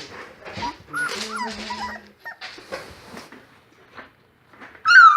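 Young Great Pyrenees × Dogue de Bordeaux puppies, about two to three weeks old, whimpering and squeaking in short bending cries, with scuffling among them. About five seconds in, one puppy lets out a louder squeal that falls in pitch.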